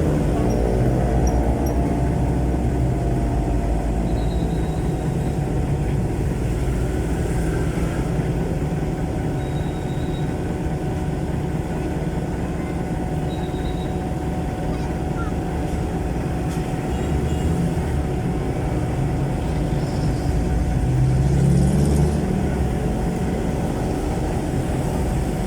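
Jeepney's Isuzu 4BC1 four-cylinder diesel engine running through a very loud exhaust muffler, a steady rumble while the jeepney drives. The revs rise briefly about 21 seconds in as it accelerates.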